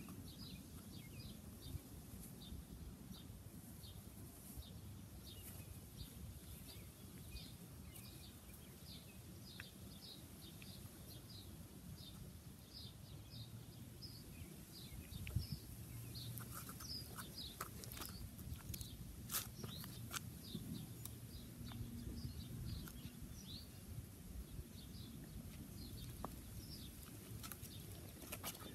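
Faint outdoor ambience: a small bird chirping over and over, about two short high chirps a second, over a low steady rumble. A few light clicks come in the middle.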